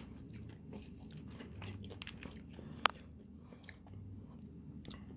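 A person chewing a burrito loaded with crushed chips and hot fries, close to the microphone: small irregular crunches, with one sharp click about three seconds in.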